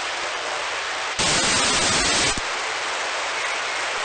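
FM radio receiver static from a satellite voice-repeater downlink between transmissions: a steady hiss, with a louder rush of noise about a second in that lasts about a second and then drops back.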